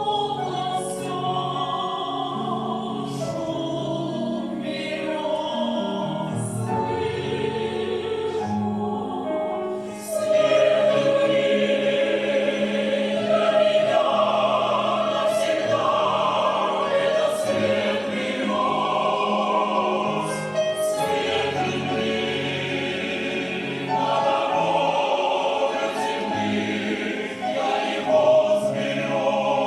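A choir singing a Russian song in concert, the voices holding long notes that change in steps. It grows markedly louder about ten seconds in and swells again later.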